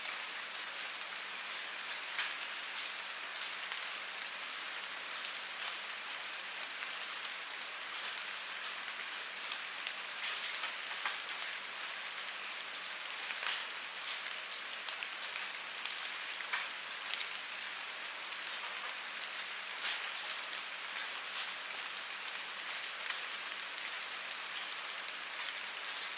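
Steady rain falling, a constant hiss with many separate drops ticking close by.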